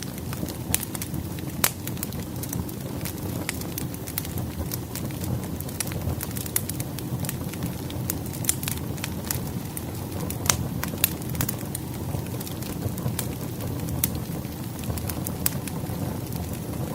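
Firewood burning in a fireplace: a steady low rumble of flames with frequent irregular crackles and occasional louder pops of the wood.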